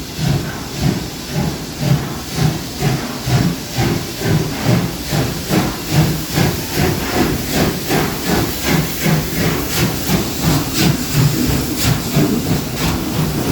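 Two steam locomotives working together as a double-header, chuffing as they pull away: regular exhaust beats, about two a second, with steam hissing throughout.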